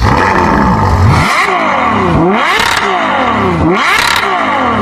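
Hyundai Accent with an automatic transmission running, its whine sweeping down in pitch and back up again about every second and a half. The hum is taken for an automatic transmission fault, and the transmission is to be taken out and opened to find the cause.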